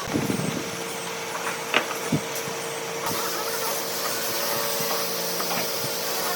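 An electric woodworking power tool's motor running steadily, with a few short knocks.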